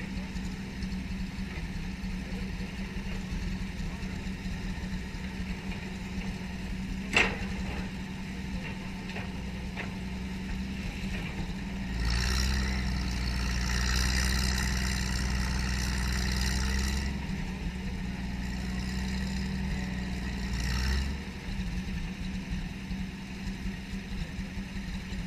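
An old heavy-equipment engine idling steadily, with one sharp click about seven seconds in. About halfway through it runs louder with a deeper rumble and a hiss for several seconds, then settles back to idle.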